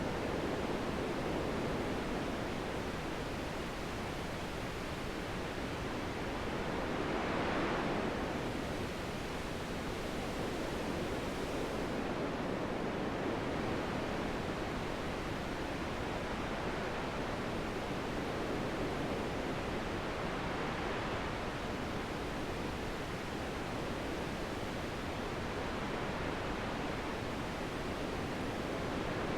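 Wind blowing steadily as a continuous rushing noise, swelling in a gust about seven seconds in and more faintly again around twenty seconds in.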